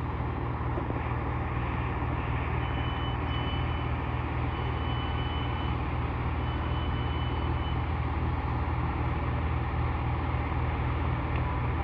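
Chiltern Railways Class 165 diesel multiple unit idling at the platform, its engines giving a steady low drone. From about two and a half to eight seconds in, a high electronic beep sounds in four short runs.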